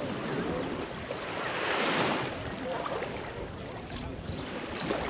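Small waves washing onto a sandy shore in a calm bay, one wash swelling loudest about two seconds in, with faint distant voices of beachgoers.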